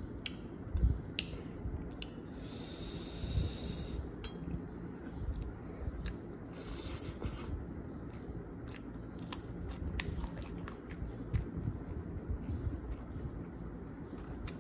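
Close-up chewing of rice and goat curry eaten by hand, with many small wet mouth clicks. Two breathy hisses come through, about two seconds in and again around seven seconds in.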